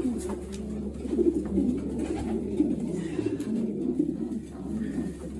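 Racing pigeons cooing together in the loft: many low coos overlapping continuously, with a few light clicks.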